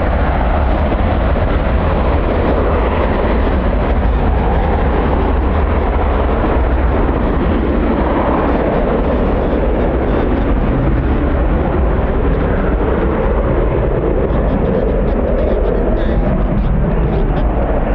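Strong wind blowing across the microphone: a loud, steady rumble without a break, with slow swells in the roar.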